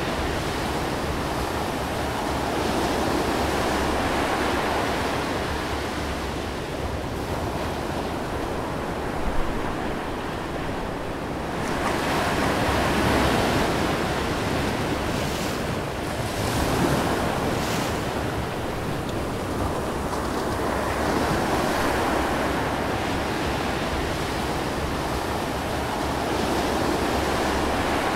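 Steady rush of ocean waves and surf mixed with wind noise, swelling and easing slowly.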